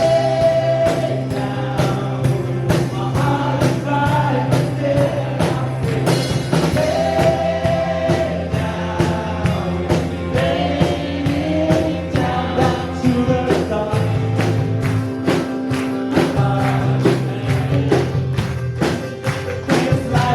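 A live church worship band playing a gospel song: voices singing a melody over bass and keyboard, with a steady beat of percussion strikes, tambourine among them.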